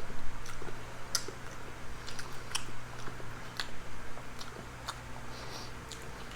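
A person chewing food close to the microphone, with irregular small mouth clicks and smacks. A steady low hum runs underneath.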